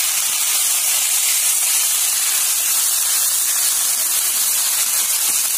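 Onion paste sizzling in hot oil in a kadhai as it is sautéed, a steady hiss.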